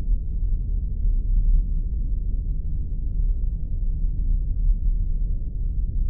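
Spaceship ambience sound effect: a deep, steady rumble, all of it low in pitch, with no tones or changes.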